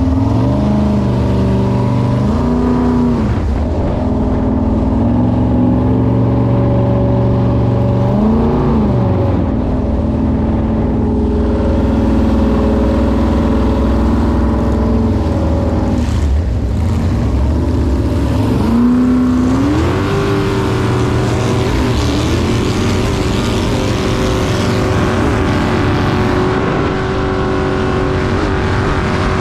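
Jet boat's Chevy V8 engine running under way. Its pitch climbs and drops several times in the first ten seconds as the throttle is worked, then rises about two-thirds of the way through and holds higher.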